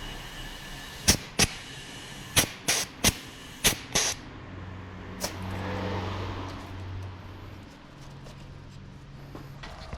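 Seven sharp clacks of hard objects knocking together in about three seconds, followed by a low steady hum that fades after a few seconds.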